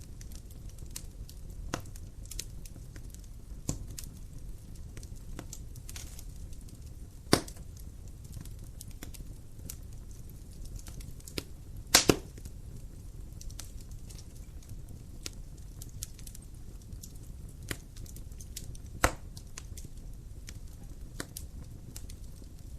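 Wood fire in a fireplace crackling over a low rumble of flame, with irregular sharp pops. The loudest snaps come about a third of the way in, as a quick double pop near the middle, and once more past three-quarters.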